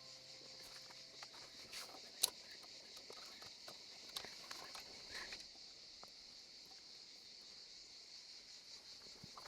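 Steady high chirring of insects in the woods, with a few light clicks and knocks over it, the sharpest about two seconds in. Held music tones fade out in the first second or so.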